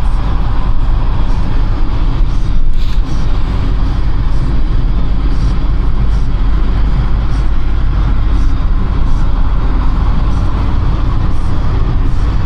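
Steady road noise of a car driving at expressway speed, heard from inside the cabin: a continuous deep rumble of tyres and engine.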